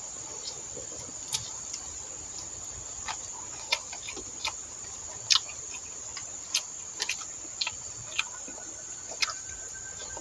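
Steady high-pitched drone of insects in the plantation, with about a dozen irregular sharp clicks and smacks scattered through it. A faint thin whistle joins about eight seconds in.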